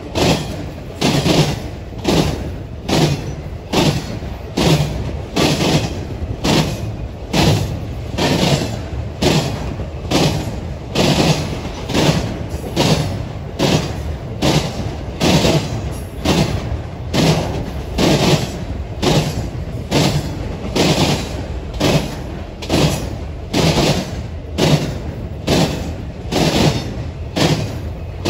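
Wheels of a passing eastbound intermodal freight train slamming over jointed rail, a steady rhythm of heavy clacks about every three-quarters of a second.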